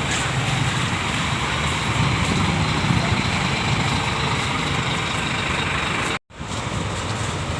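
Scania K410IB bus's 13-litre six-cylinder diesel engine running steadily, a low rumble with a hiss over it. The sound drops out completely for a split second about six seconds in.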